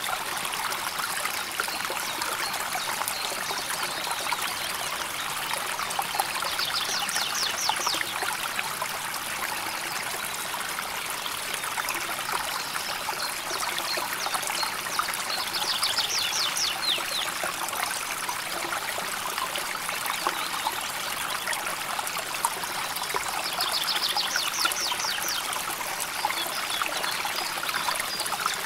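River water flowing and trickling in a steady, even rush. A high, rapid trill sounds three times over it, each lasting about a second and a half.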